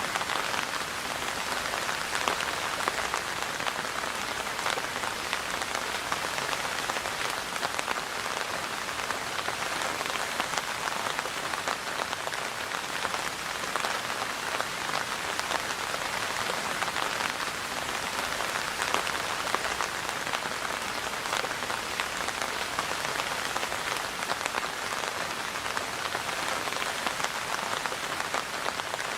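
Steady rain falling, a dense patter of drops hitting a surface with many small individual drop ticks, unchanging in strength throughout.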